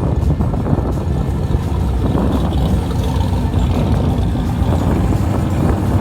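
Big engine of a street-legal drag car running at idle: a deep, steady rumble.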